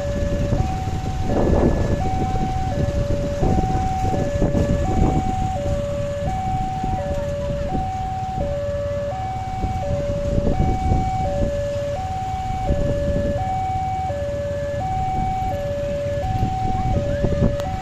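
Railway level crossing warning alarm sounding a steady two-tone signal, alternating high and low pitch about every 0.7 seconds, which warns that a train is approaching and the barrier gates are closing. Road traffic rumbles underneath.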